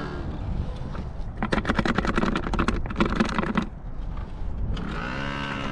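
Motorcycle engines on the street: a rapid, rattling run of engine pulses for about two seconds, then an engine note that rises and falls near the end, over a steady low rumble.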